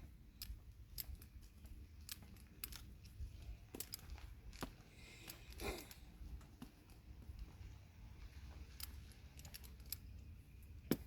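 Rope and gear being handled and sorted by hand: scattered faint clicks and rustling, with a sharper click near the end.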